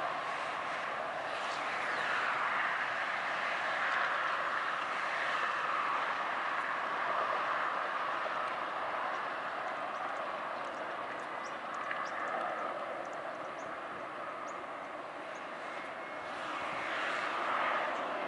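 Jet rush from an Airbus A340-300's four CFM56 turbofan engines as it lands: a steady rushing noise that swells a couple of seconds in and again near the end.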